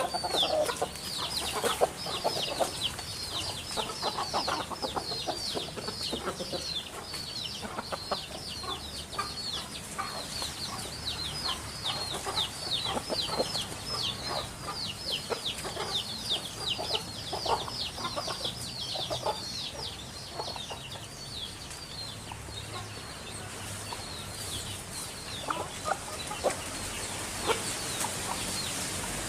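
Birds calling: a quick run of many short, high chirps, each falling in pitch, over scattered lower clucking calls. The chirping thins out and stops after about twenty seconds.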